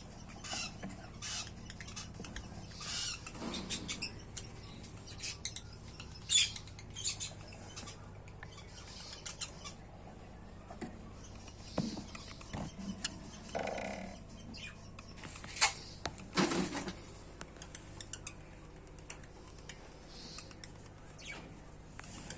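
Lovebirds giving short high chirps and squeaks, on and off, with a few sharp clicks among them.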